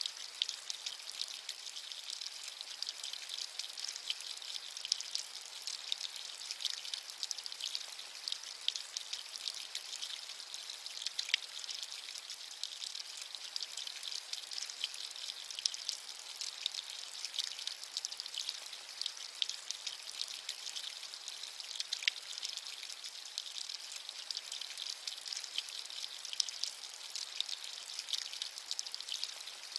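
Steady rain falling: a dense, even patter of many small drops, with a few louder single drops standing out now and then.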